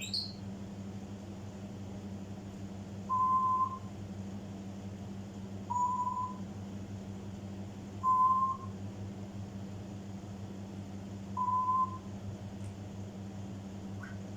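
African grey parrot giving four short whistles, each on a single steady pitch and about half a second long, spaced a few seconds apart, over a steady low hum.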